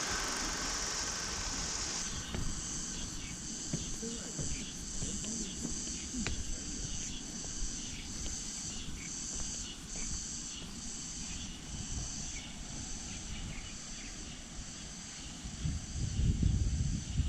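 Cicada chorus, a high buzzing drone that pulses a little over once a second. A louder low rumble comes in near the end.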